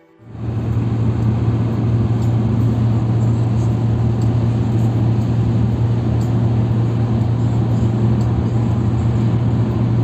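Car driving at a steady speed, its engine and road noise making a low, even hum with a wide hiss that starts suddenly just after the start and holds steady throughout.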